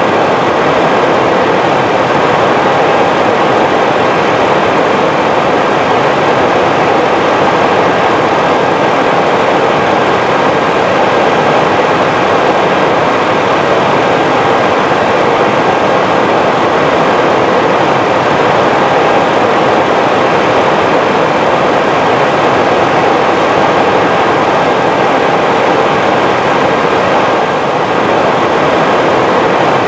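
Steady rushing cabin noise on the flight deck of an Airbus A320 on approach, with a faint steady whine running through it.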